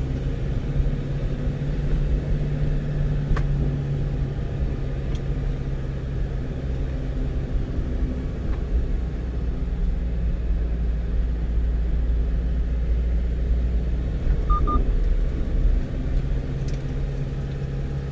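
A one-ton truck's engine and road noise heard inside the cab while driving, a steady drone. A short double electronic beep comes about fifteen seconds in.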